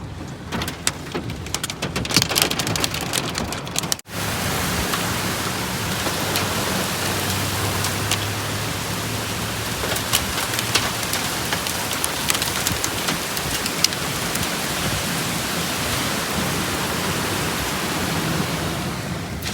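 Heavy rain pouring down in a steady hiss. Sharp taps of drops striking a hard surface stand out in the first four seconds, then the sound cuts to an even downpour.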